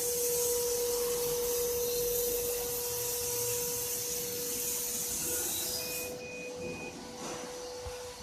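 Double-head CO2 laser cutting machine running, with a steady hum and a high air hiss that cuts off suddenly about six seconds in. Three short, evenly spaced beeps follow.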